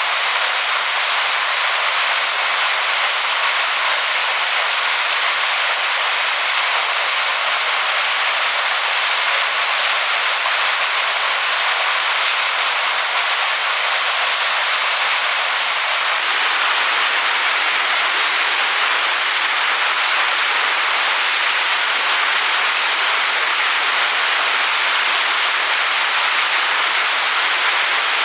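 Waterfall splashing onto rocks: a steady, even rush of falling water, heavy in the high hiss and thin in the low end. About halfway through, the lower part of the rush grows a little fuller.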